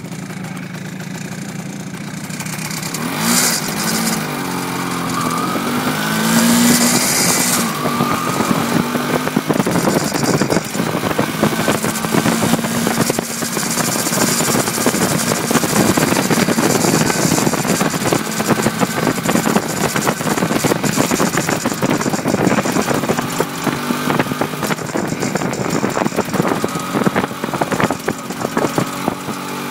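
MZ ES 250/2 A motorcycle's single-cylinder two-stroke engine running: idling at first, revved up in rising sweeps a few seconds in, then held at a rougher, busier engine speed through the middle before settling back toward a steady idle near the end.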